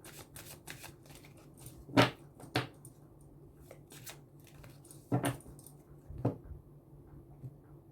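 A deck of cartomancy cards being handled: a quick run of shuffling clicks in the first second, then four sharper taps spread out at about two, two and a half, five and six seconds in.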